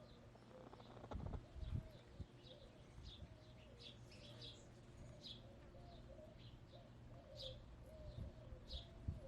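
Backyard hens making soft, steady, wavering clucking murmurs, with small wild birds chirping in short high notes throughout. A few low thumps come about a second in.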